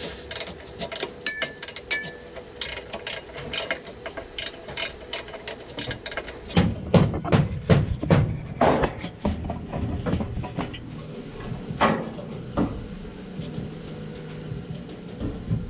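Hand tools working on steel parts: irregular metal clicks and clinks, then a run of heavier, louder knocks from about six and a half to nine seconds in, and two more near twelve seconds.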